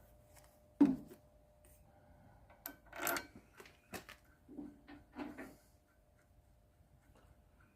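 Tools and parts being handled: a sharp knock about a second in, then a run of clunks and scraping sounds.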